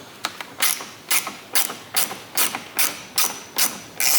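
Hand ratchet clicking in quick, even strokes, about two and a half a second, as a long bolt is wound out.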